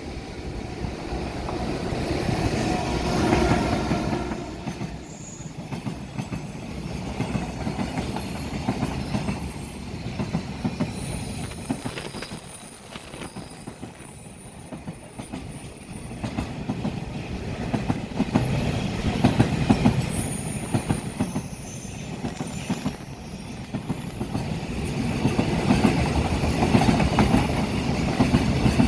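Container freight train hauled by an EF210 electric locomotive running through a station without stopping: a steady rumble of wheels on rail with the clickety-clack of the wagons. High wheel squeal comes and goes through the middle of the passage.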